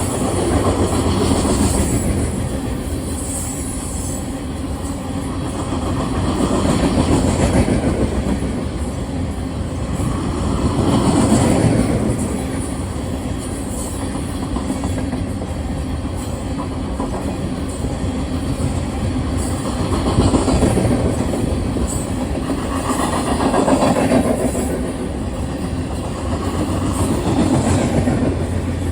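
Union Pacific freight train rolling past, its cars' wheels clattering over the rail joints in a steady rumble that swells and eases every few seconds.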